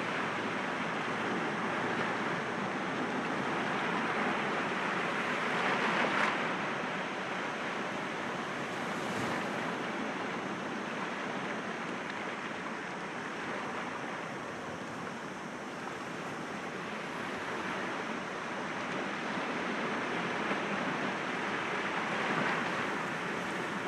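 Sea waves breaking against rocks and washing back, a continuous wash of surf that swells twice, about six seconds in and again near the end.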